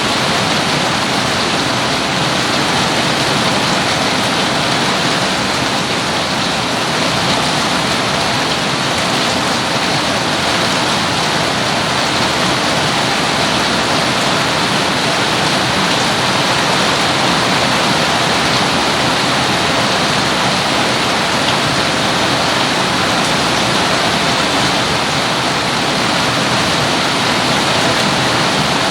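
Steady, loud rain falling evenly, with no breaks or single drops standing out.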